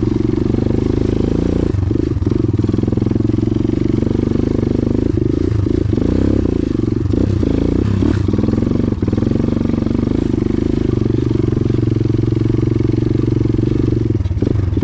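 Motorcycle engine running under load on a dirt track, its pitch dropping and rising briefly several times as the throttle changes.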